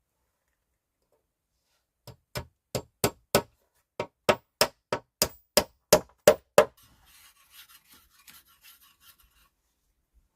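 About fourteen sharp knocks in a quick, even rhythm, roughly three a second with a short break midway, then faint scraping.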